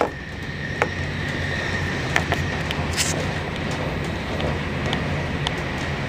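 Train running, heard from inside the passenger carriage: a steady low rumble with sharp clicks and knocks every second or so.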